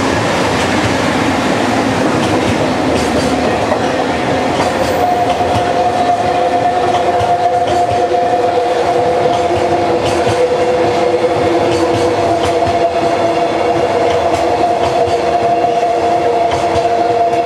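A train of empty Koki container flatcars rolling past, the wheels clattering over the rail joints. A steady high ringing whine joins in about five seconds in.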